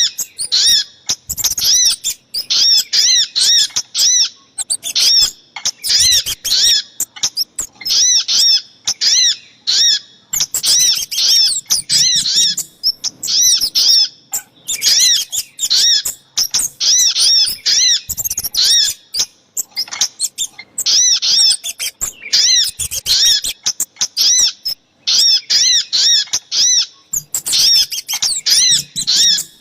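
Bird-lure recording of small songbird calls: rapid series of sharp, high chirps in bursts of one to three seconds with short gaps between, from a track combining the calls of the sogok ontong (little spiderhunter) and the kemade.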